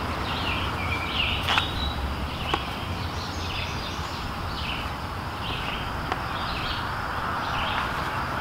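Birds chirping in short repeated calls over a steady low background rumble, with one sharp click about a second and a half in.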